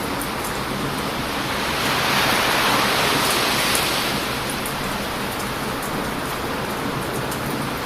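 Heavy surf breaking on a beach: a steady rush, with one wave swelling about two seconds in and falling away by four seconds. Faint crackles of a wood bonfire come through over it.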